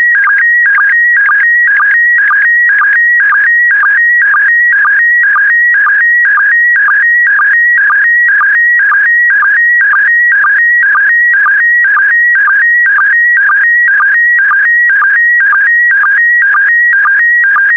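PD120 slow-scan television (SSTV) signal: a loud, continuous, warbling whistle-like tone that shifts in pitch as it carries the picture's scan lines. It is broken by a short sync pulse in an even rhythm of about two per second.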